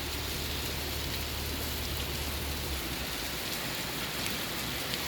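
Steady rain falling, an even hiss of drops, with a low hum underneath that stops a little under three seconds in.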